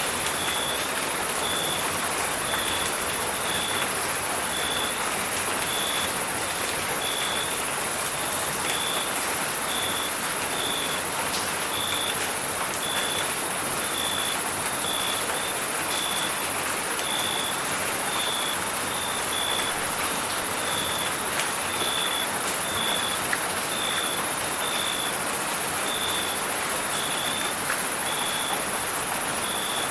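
Steady rain hiss with a cricket chirping at an even pace, about two short chirps a second, over a constant very high insect trill.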